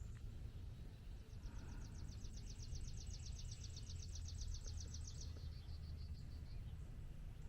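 A songbird's trill: a rapid run of high, evenly repeated notes, about seven or eight a second, starting about a second in, lasting about four seconds and trailing off softer. A steady low rumble runs underneath.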